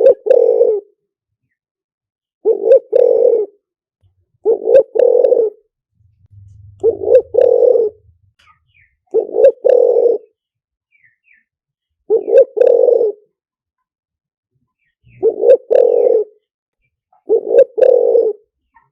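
Spotted dove cooing: a loud two-part coo, repeated eight times at intervals of two to three seconds. It is a decoy call for luring wild spotted doves.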